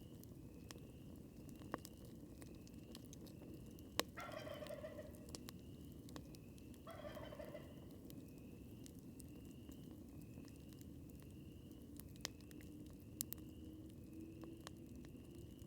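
A wild turkey gobbles twice in the distance, each call about a second long, about 3 seconds apart. Under it a campfire crackles with a few sharp pops over a low hiss, and a faint high chirp repeats about twice a second.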